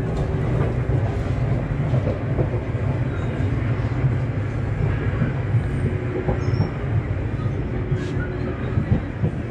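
Steady low rumble of a train running on rails, with a few faint clicks.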